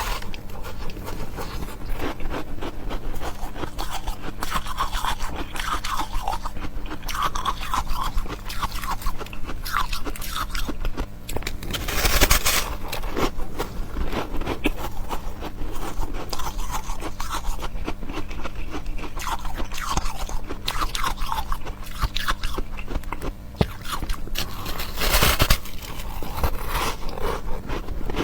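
Close-miked chewing of ice: a steady run of crisp crunching and scraping, with two louder bites about 12 seconds and 25 seconds in.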